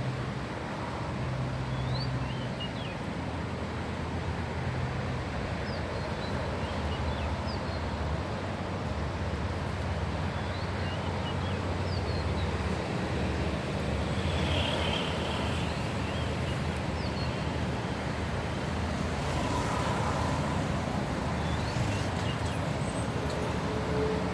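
Steady outdoor background noise of wind and distant traffic with a low hum, and faint short high chirps now and then.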